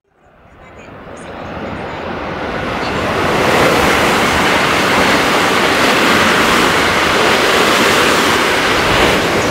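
A train running through at speed: a rushing noise that builds over about three seconds, then holds loud and steady.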